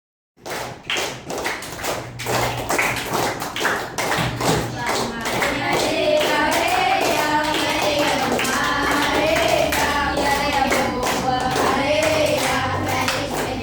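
Rhythmic hand clapping that starts abruptly, joined about five seconds in by a group of voices singing along to the beat.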